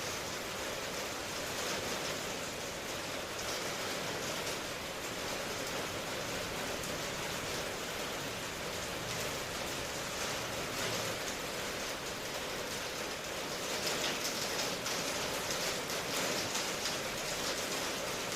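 Steady rain falling in a dense, even hiss of drops, growing a little heavier about two-thirds of the way through.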